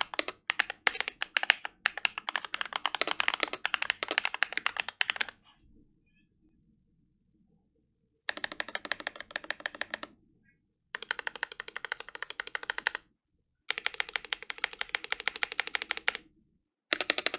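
Fast typing on a Glorious GMMK Pro mechanical keyboard with lubed, paper-modded Feker Holy Panda tactile switches on an aluminium plate with no foam, and PBT Cherry-profile keycaps. Runs of rapid keystrokes are broken by short pauses, the longest about three seconds starting around five seconds in.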